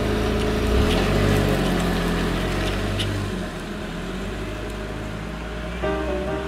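Car engine pulling away and accelerating along a road, its pitch rising about a second in and then settling into a steady run with road noise. Soft piano music comes in near the end.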